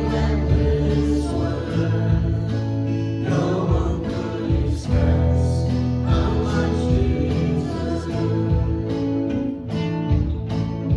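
Worship band music: strummed guitar over a steady bass, with singing.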